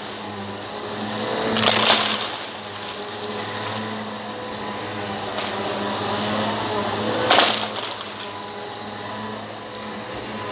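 Eureka PowerSpeed upright vacuum cleaner running with a steady motor hum while it sucks up rock salt and lentils. Two louder surges of noise come about two seconds in and again near the end.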